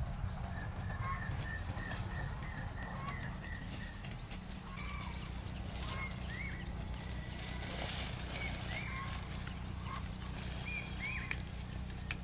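Small birds chirping, with many short calls that glide up and down, over a steady low rumble and a few sharp knocks.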